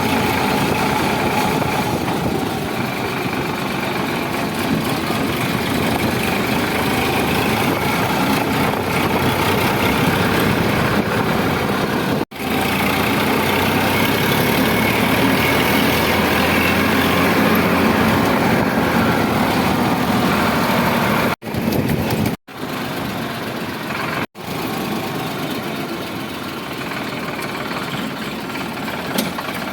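Tractor diesel engine running steadily, getting somewhat louder in the middle. The sound breaks off abruptly for a moment four times: once about twelve seconds in, and three times in quick succession later on.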